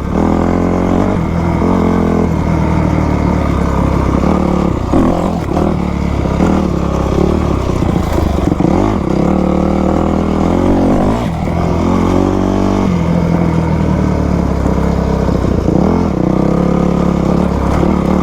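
2000 Yamaha YZ250's two-stroke single-cylinder engine being ridden off-road, its revs climbing and dropping again and again as the throttle is worked over rough ground.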